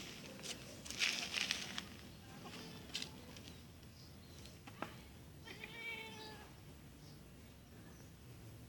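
A domestic cat meows once, a single call of about a second, roughly two-thirds of the way in. Earlier there is a brief burst of rustling and a couple of light knocks.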